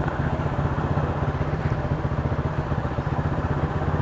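Motorcycle engine running at a steady speed, with an even, rapid firing pulse.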